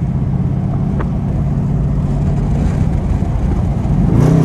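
Straight-piped Dodge Durango SRT's Hemi V8 exhaust droning steadily while cruising, then getting louder and rising slightly in pitch near the end as the throttle opens.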